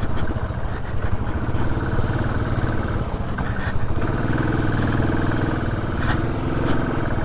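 Benelli TRK 502's parallel-twin engine running steadily at low speed on a rough trail, with a few light knocks near the middle and end.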